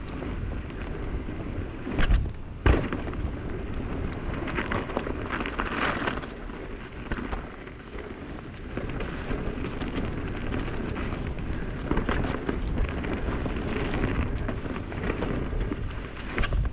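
Mountain bike rolling along a dirt trail that is frozen in spots: a steady rumble and crackle of the tyres on the ground, with two sharp knocks from the bike about two seconds in and again just after.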